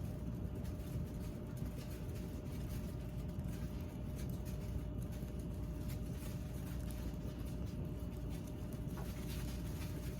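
Wood fire burning, with faint scattered crackles over a steady low rumble.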